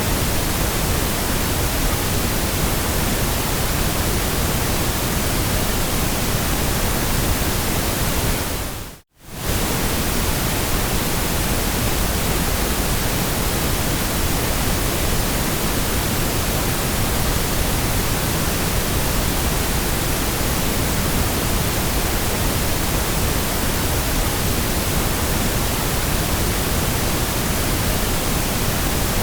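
Steady, even hiss of generated white noise, with no pattern or change in pitch. It fades out to silence about nine seconds in and comes straight back within half a second.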